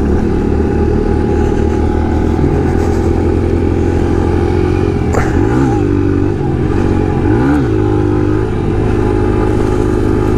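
Kawasaki KLX140 pit bike's single-cylinder four-stroke engine running while being ridden, with two short rises and falls in revs about five and a half and seven and a half seconds in.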